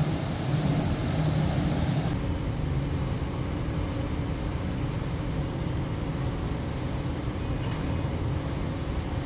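Steady outdoor rumble, with a low hum and a faint higher tone that drop away about two seconds in.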